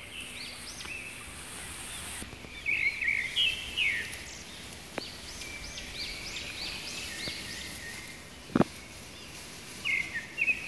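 Small birds chirping in clusters of short, arching high notes over a steady outdoor hiss, with one sharp click about eight and a half seconds in.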